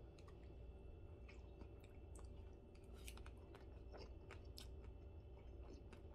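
Faint chewing of a mouthful of pan-fried gyoza, with scattered small mouth clicks.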